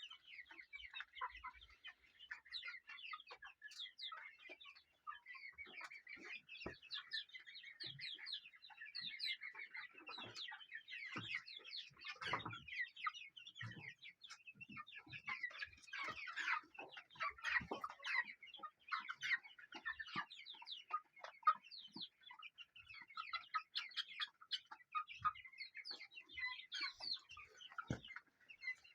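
A flock of chickens clucking and calling, many short calls overlapping continuously, with a few soft knocks.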